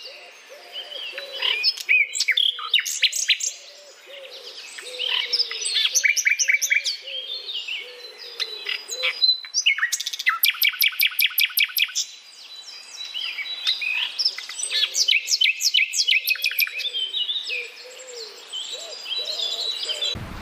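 Several birds chirping and singing at once: bursts of quick high chirps and rapid trills, with a lower call repeating steadily underneath.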